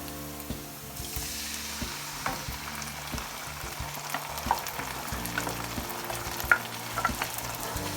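Tinned chopped tomatoes going into a pan of onions frying in hot oil. The sizzle grows louder about a second in, and a spoon scrapes and knocks against the pan as the mixture is stirred.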